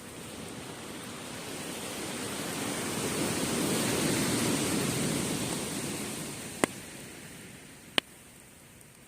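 A sea wave breaking and washing up the beach, its rush swelling to a peak about four seconds in and then fading as it draws back. Two sharp pops from the wood fire come near the end, about a second and a half apart.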